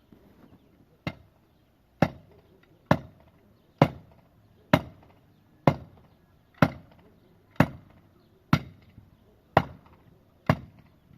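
A hand tool striking wood in a steady rhythm, about one heavy blow a second, eleven blows in all.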